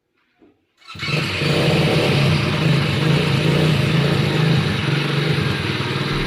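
A 200 cc ATV quad bike engine running. It comes in suddenly about a second in and keeps running at a steady pace.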